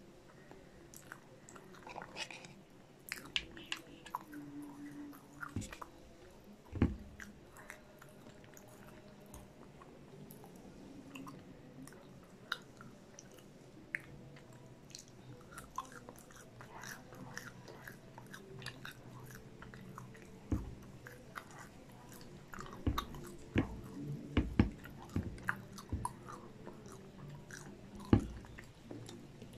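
Close-miked chewing and biting of cheesy popcorn chicken, with wet mouth clicks and a few louder knocks scattered through.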